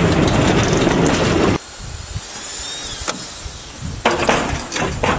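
Steady rumble and hiss of a narrow-gauge train on the move, cut off suddenly about one and a half seconds in. After a quieter stretch, a run of sharp knocks and clanks from railway wagons begins near the end.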